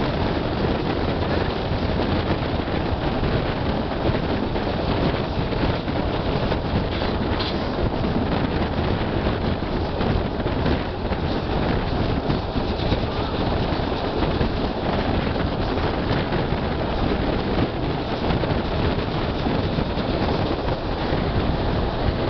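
Vitória–Minas (EFVM) passenger train rolling along, heard from an open coach window: a steady rumble of wheels on the rails with now and then a faint click from the track.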